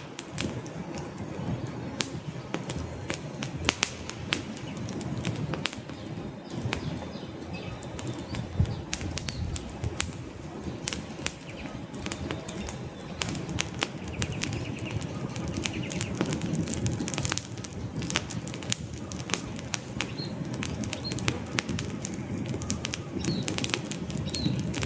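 Wood fire crackling in a fireplace: many sharp pops and snaps at irregular intervals over a steady low rumble of burning logs.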